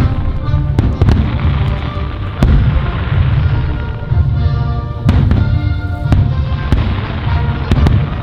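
Fireworks show: a dozen or so aerial shells bursting with sharp bangs at uneven intervals over a continuous low rumble, with music playing alongside.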